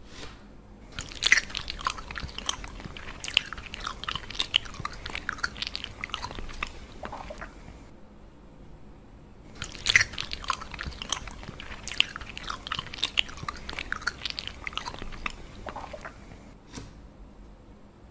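Close-up biting and chewing of a sausage bun, crisp crunching and wet mouth clicks in two long bouts of about six seconds each, with a pause of about two seconds between them.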